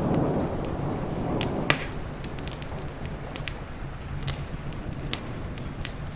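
Wood fire crackling, with irregular sharp pops and one loud snap a little under two seconds in. Under it, a low rumble of thunder dies away over the first couple of seconds.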